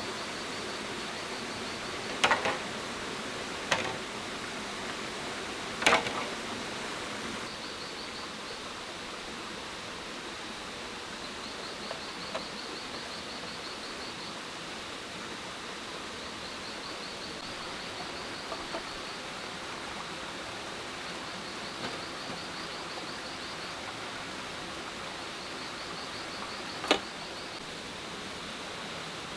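Outdoor jungle ambience: a steady hiss, with an insect trilling high in short repeated phrases every few seconds. A few sharp knocks or cracks come three times in the first six seconds and once near the end.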